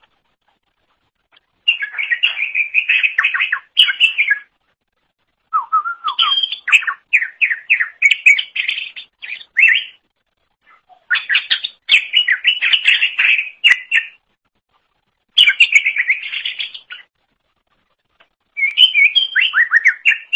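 Cucak ijo (green leafbird) singing loudly in five rapid bursts of quick, varied chirping and whistled notes, separated by short pauses.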